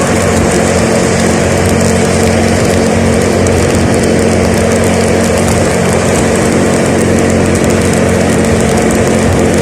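A vehicle's engine running at a steady speed on the road, a constant drone under an even rushing noise.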